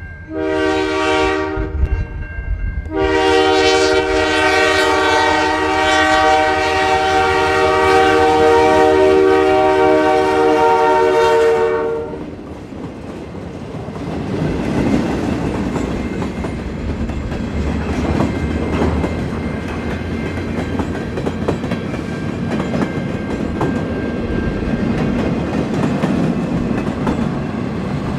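Freight locomotive's multi-chime air horn: a short blast, then a long blast of about nine seconds that cuts off. The train then rolls past, its wheels clicking over the rail joints.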